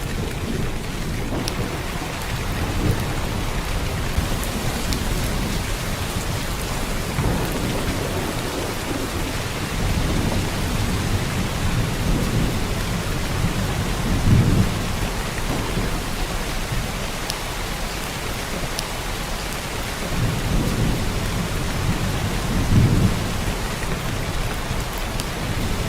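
Heavy downpour of rain: a steady, even hiss of rain on surfaces, with low rumbles swelling up several times.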